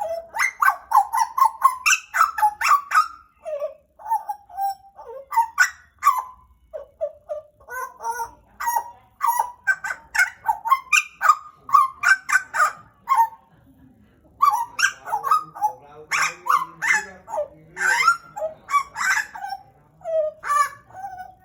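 Pied butcherbird calling in a long run of short, loud notes, with a brief pause about two-thirds of the way through.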